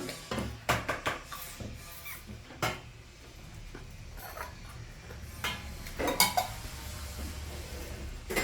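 Eating at a meal: dishes and utensils clinking and scraping in short, scattered knocks, with a loud cluster about six seconds in.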